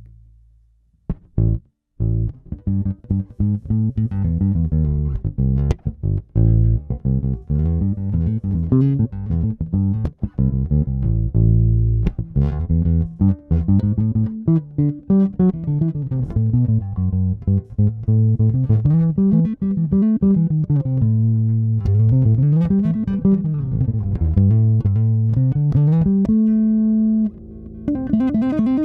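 FGN Mighty Power electric bass played solo, a busy line of plucked notes with runs that climb and fall in pitch. Near the end a note is held, then it gives way to softer, higher notes.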